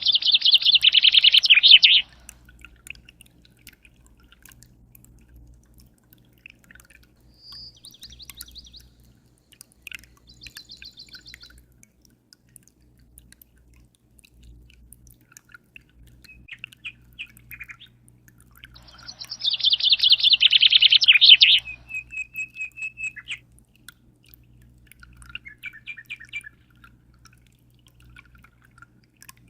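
Songbird singing: two loud, fast trilled phrases, one at the start and one about twenty seconds in, the second ending in a run of evenly repeated high notes, with softer scattered chirps between them. A steady low hum runs underneath.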